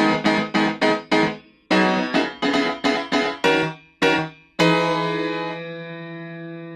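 Sampled 1928 Steinway Scoring Piano played in Soundpaint with its Color mode reshaping the tone: quick repeated chords, about three a second, in short phrases. About two-thirds of the way through, one chord is held and left to ring, slowly fading.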